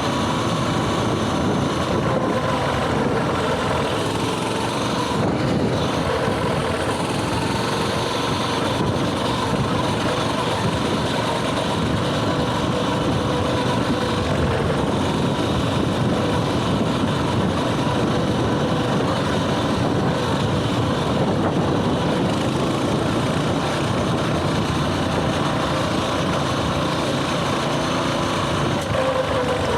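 Coleman mini bike's small single-cylinder engine running steadily at cruising speed, with a fairly even pitch and no pauses.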